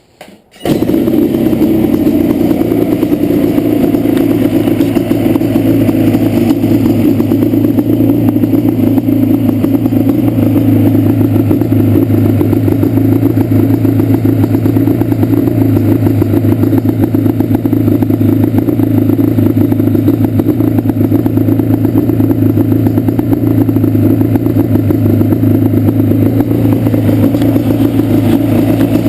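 Yamaha Banshee's 350cc two-stroke twin idling at a steady level, starting abruptly about half a second in. It idles poorly, which the owner puts down to a bad misfire on the left cylinder.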